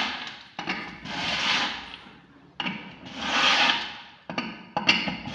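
Scraping, rubbing strokes that swell and fade about every two seconds, with small clicks between them.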